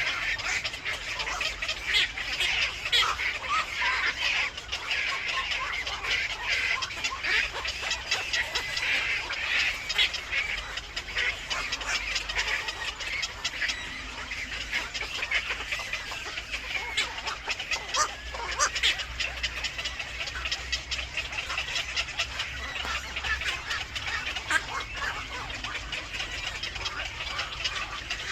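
Birds calling without a break: a dense chatter of many short, high calls and chirps.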